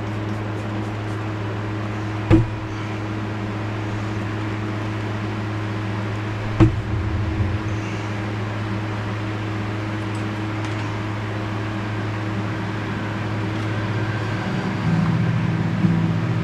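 A steady low mechanical hum with two sharp knocks, about two seconds and about six and a half seconds in.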